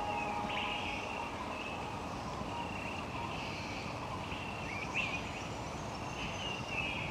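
Recorded rainforest ambience: birds calling repeatedly in short, sweeping chirps over a steady background hiss.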